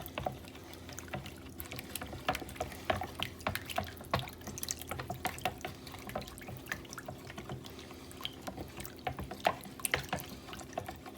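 Pan of water with egg noodles boiling on the hob: irregular small bubbling pops and clicks over a steady low hum.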